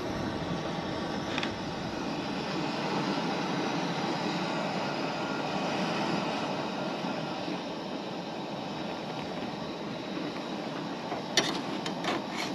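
Dough frying in hot oil in a skillet, a steady sizzle, with a few sharp clicks near the end.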